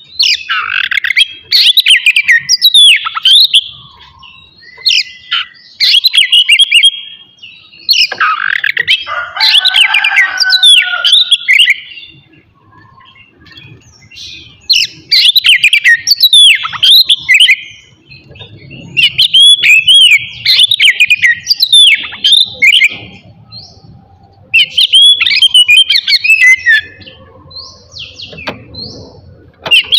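Oriental magpie-robin (kacer) singing loud, varied phrases of sharp whistles and quick trills, in bursts of a few seconds broken by short pauses.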